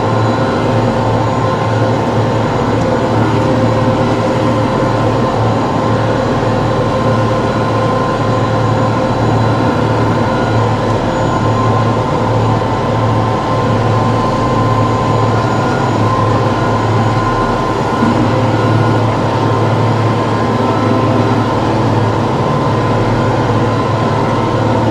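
TYM T654 tractor's diesel engine running steadily under load, a constant drone with no change in pitch or level.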